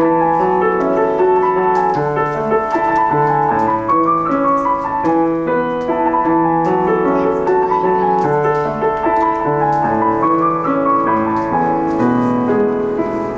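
Piano played as a recital piece: a continuous run of notes, a melody over lower chords.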